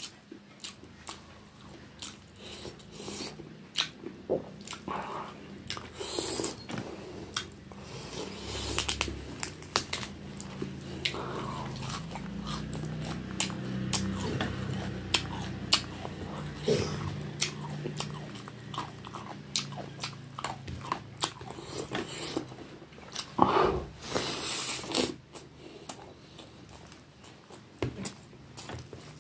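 Close-miked chewing of a mouthful of rice and fish curry eaten by hand, with many small wet clicks and lip smacks and one louder smack about two-thirds of the way through.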